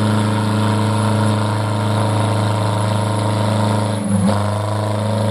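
Pulling tractor's engine running steadily, with a short dip and wobble in its note about four seconds in.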